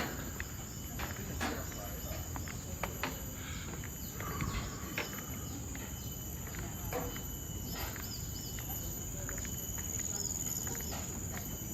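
Steady high-pitched trilling of forest insects, with scattered sharp clicks and a few short arched chirps near the end.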